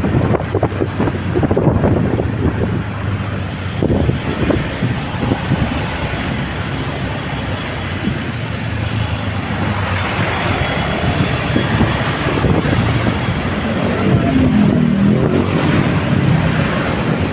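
Motorcycle engine and road-traffic noise heard while riding, loud and continuous. A short low pitched tone rises out of the noise a few seconds before the end.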